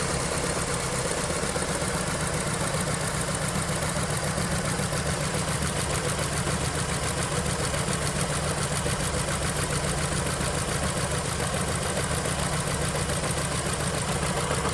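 2013 Ford Escape's inline four-cylinder engine running steadily at idle. The engine has a misfire on cylinder 1.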